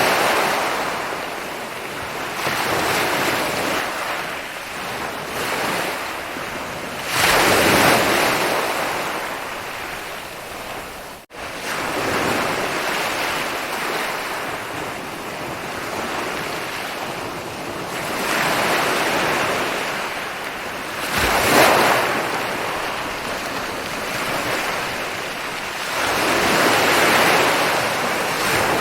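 Ocean waves breaking and washing up on a beach, with a louder surge every several seconds over a constant wash of surf. The sound cuts out for an instant about eleven seconds in.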